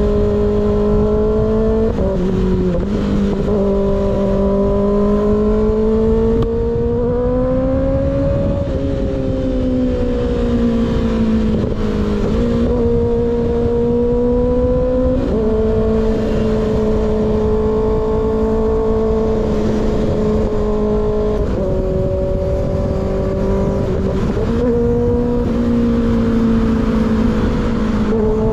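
Kawasaki ZX-6R sport motorcycle engine with an unbaffled M4 slip-on exhaust, cruising at steady revs under a loud rush of wind. Its pitch climbs slowly and eases off, with quick steps in pitch several times as it shifts gears.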